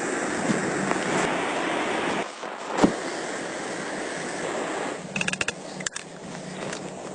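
Steady rushing, wind-like noise, as of blizzard wind, that eases a little about two seconds in. There is a single sharp knock about a second later and a quick cluster of clicks near the end.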